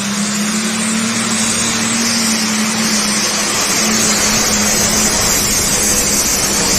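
A pulling vehicle's engine running loud and steady, a constant low hum over a dense drone, getting a little louder about three seconds in.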